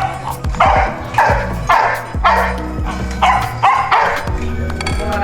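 A dog barking repeatedly, about seven short barks, over background music with a steady bass line.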